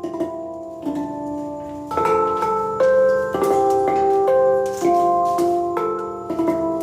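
Handpan being played: struck steel notes ringing on and overlapping in a slow melody, about one or two new notes a second.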